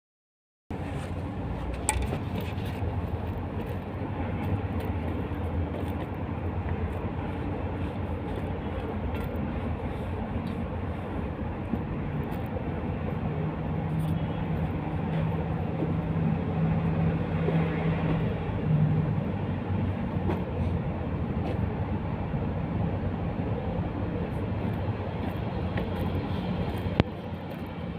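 An engine running steadily with a low drone. A higher hum joins it for several seconds partway through, and there are a couple of sharp clicks.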